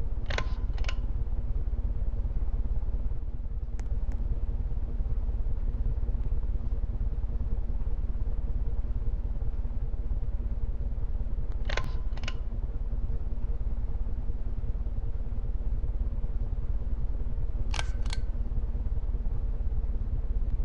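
Wobbling ceiling fan running with a steady motor hum over a low rumble. A sharp double click sounds near the start, again about twelve seconds in and once more near the end.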